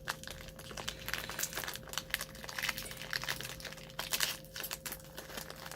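Crinkly plastic snack wrapper of an Umaibo puffed corn stick being handled and crumpled, with a run of irregular crackles.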